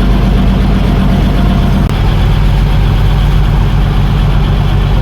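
A fishing boat's engine running steadily with a low, even hum. It drops out for an instant about two seconds in.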